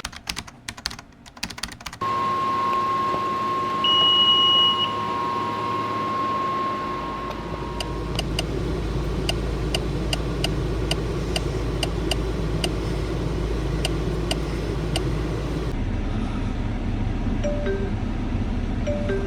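Steady low vehicle hum, as heard inside a moving car. A held electronic tone sounds for several seconds, then regular clicking at about two a second for several seconds.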